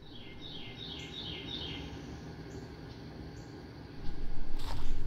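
A bird singing a quick run of about six falling chirps in the first second and a half, with a few faint, very high peeps after, over a steady low rumble. Near the end the sound gets louder, with rustling and a few sharp clicks.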